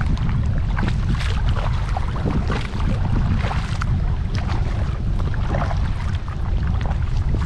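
Kayak paddle strokes splashing and dripping water, with irregular small splashes throughout, over a steady low rumble of wind on the microphone.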